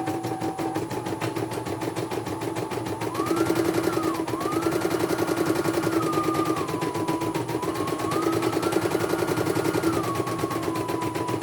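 Computerized embroidery machine running, its needle mechanism beating rapidly under a motor whine. The whine rises in pitch about three seconds in, then steps down and back up a few times as the machine speeds up and slows.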